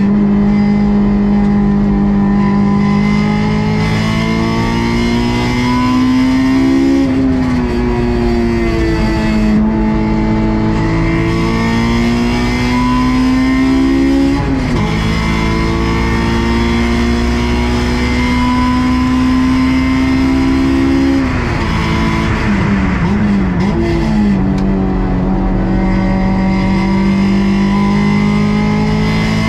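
Honda S2000 AP2's stock 2.2-litre four-cylinder engine under hard driving on a circuit. Its pitch climbs steadily in each gear and drops sharply at the shifts. Around two thirds of the way in, the pitch jumps up and down several times in quick succession, like downshifts with throttle blips under braking.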